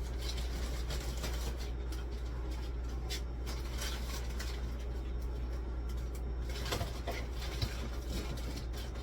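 Scattered light clicks, knocks and rustles of groceries and food containers being handled while a fridge is restocked, over a steady low hum.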